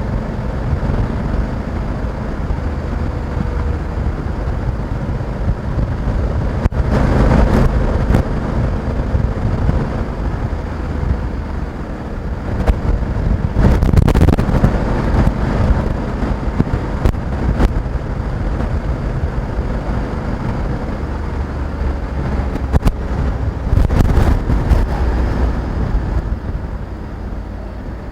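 Honda Africa Twin 1100 DCT's parallel-twin engine running steadily while the motorcycle is ridden, mixed with wind noise on the microphone. It gets louder for a second or two several times, about a quarter, half and most of the way through, and eases off near the end.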